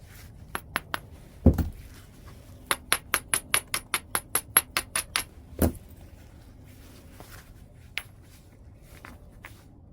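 Knapping a piece of white chert: a few sharp clicks, then a heavy strike about a second and a half in. A quick run of about a dozen light, ringing taps follows, about five a second, then another heavy strike near six seconds and one last click.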